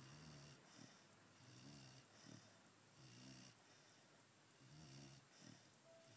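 Pit bull puppy snoring faintly in its sleep: a short, low, rattly snore on each breath, about four in all, roughly every one and a half seconds, each with a faint airy hiss.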